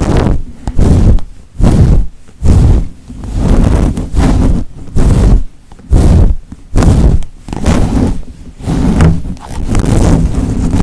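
ASMR trigger: repeated rubbing strokes close to the microphone, about three every two seconds, each under half a second.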